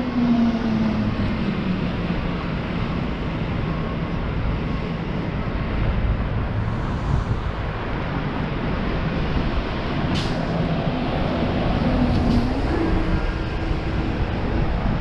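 City street traffic: a steady rumble of passing vehicles, with an engine note rising and falling near the start and again about twelve seconds in, and a short sharp high sound about ten seconds in.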